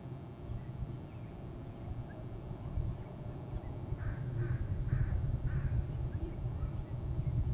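A bird gives four harsh, caw-like calls in quick succession, about half a second apart, over a steady low outdoor rumble.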